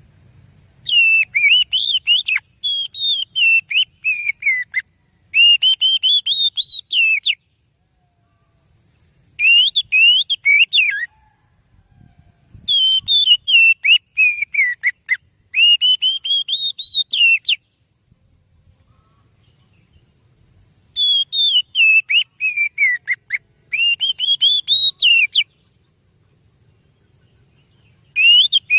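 Oriental magpie-robin singing: phrases of quick, varied whistled notes, each a second or two long, with short pauses between them.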